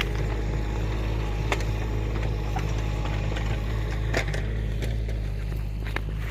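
Excavator engine running steadily with a low drone, with a few sharp clicks and knocks on top.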